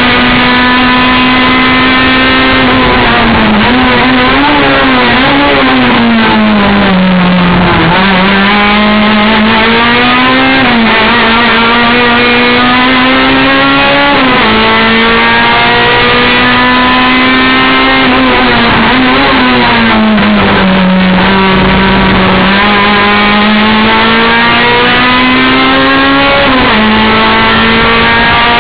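Race car engine under hard acceleration, its revs climbing slowly and then dropping sharply at a gear change about three times. Twice the revs fall away over a couple of seconds, as when braking for corners.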